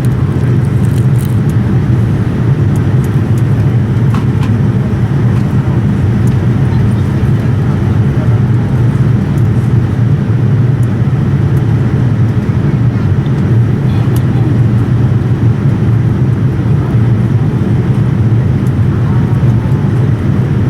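Steady low rumble of engine and airflow noise heard inside the cabin of a Boeing 787-9 airliner, unchanging throughout, with a few faint clicks.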